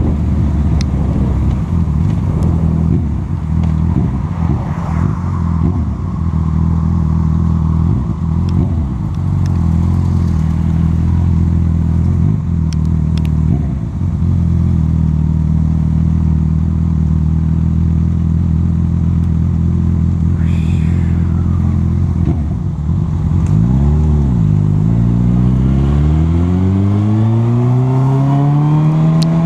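Honda CB1000R's inline-four engine running steadily under way. About 23 seconds in the revs drop and pick up again, then climb steadily near the end as the bike accelerates.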